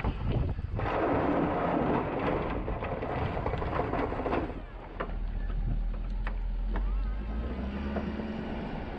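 Diesel pickup with a snow plow at work: a loud rushing, scraping noise for the first few seconds that cuts off suddenly, then the engine's low steady drone with a faint hum rising slightly near the end.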